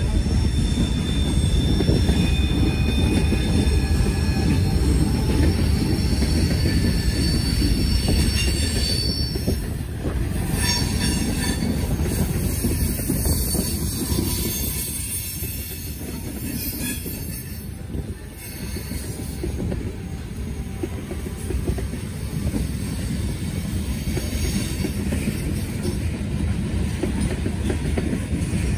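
Norfolk Southern freight train rolling past at close range: a continuous rumble of cars on the rails, with thin high-pitched tones riding above it.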